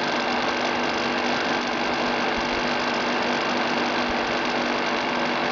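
Electric fan of a homemade cardboard-box water cooler running steadily: a constant hum with a rush of blown air.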